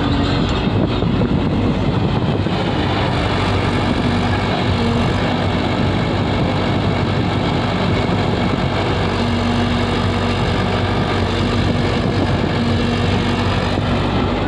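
A vehicle engine running steadily at an even level.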